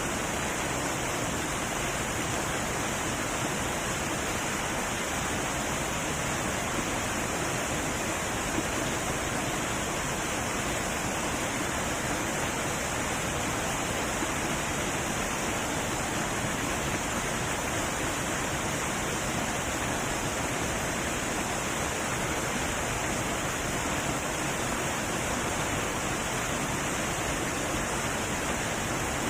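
Heavy waterfall rushing: a steady, unbroken roar of falling water.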